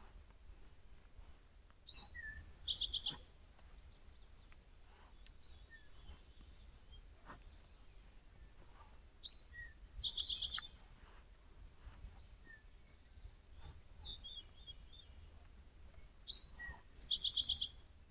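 A songbird singing the same short phrase three times, about seven seconds apart, each phrase ending in a fast high trill. Faint scattered clicks and rustles fill the gaps.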